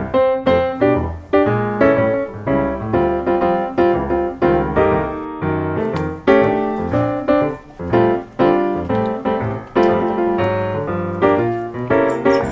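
Background piano music, a quick run of notes several per second.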